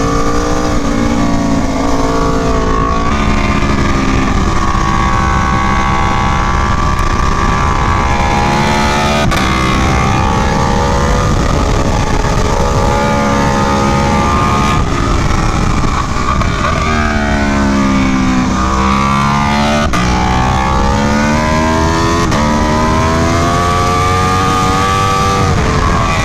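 2017 Aprilia Tuono V4 1100 Factory's V4 engine running hard on a track lap, its pitch climbing and falling with the revs as it works through the gears. About two-thirds of the way through, the note drops low and then climbs steeply again, with a steady rush of noise underneath.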